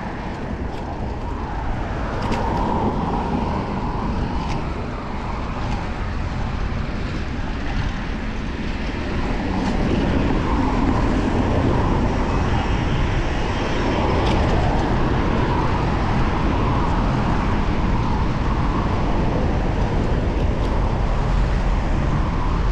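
Road traffic and wind rush heard from a moving bicycle, a steady noisy rumble that grows a little louder about ten seconds in.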